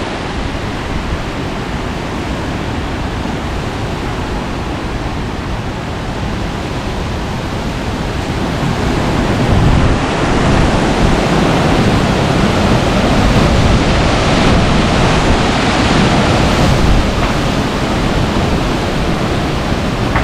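Storm-force wind blowing in a continuous rush of noise, swelling louder about halfway through and easing slightly near the end.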